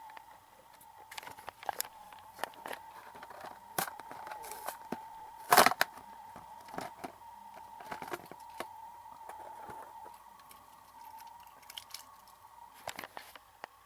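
Toy train packaging being opened by hand: tearing, crackling and scattered sharp clicks, with one louder snap about halfway through.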